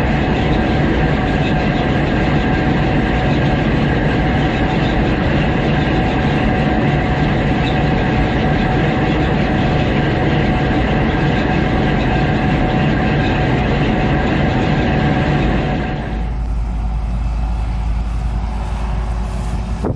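Gleaner S98 combine harvester running steadily while harvesting, a dense mechanical noise with steady whines in it. About four seconds before the end it changes abruptly to a duller, deeper rumble.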